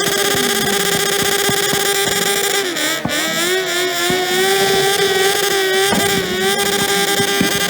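Motorcycle engine held on its rev limiter: a loud, steady high-pitched note chopped by rapid limiter cut-outs. About three seconds in the revs sag and climb back, then it holds on the limiter again.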